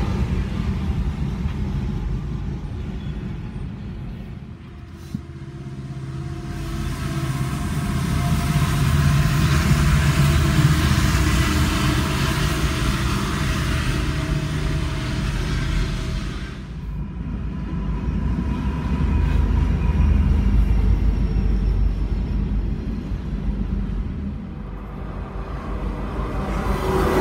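Freight trains passing close by: diesel locomotives and rolling freight cars rumbling past, heard from inside a car. The loudness dips and the sound changes a few times, about five, seventeen and twenty-five seconds in.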